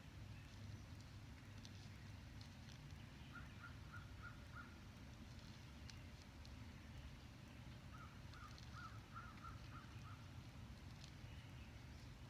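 Faint bird calls in two runs of short, evenly repeated notes, about five in the first run and about eight in the second, over a low outdoor rumble.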